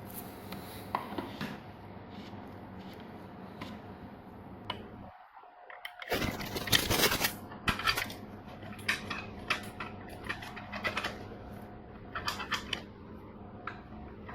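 Runs of light clicks and clinks from small hard objects being handled, growing busier from about six seconds in, over a steady low hum.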